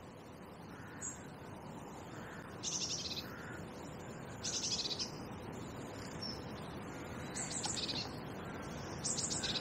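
A small songbird singing short high-pitched phrases, about half a second each, four times at intervals of about two seconds, over a faint steady background hiss.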